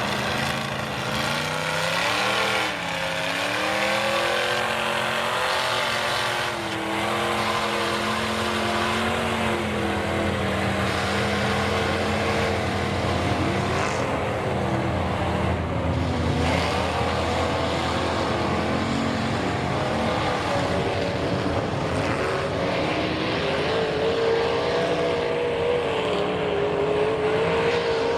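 High-horsepower mega mud truck engine running loud through open headers, revving up and down repeatedly as the truck works through a mud pit.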